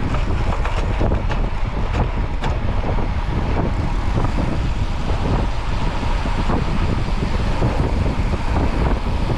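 Steady road and traffic noise with wind buffeting the microphone.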